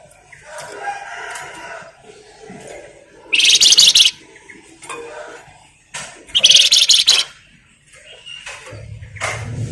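Flamboyan songbird giving two loud, harsh, fast rattling bursts about three and six seconds in, with softer chirps between them. A low rumble comes in near the end.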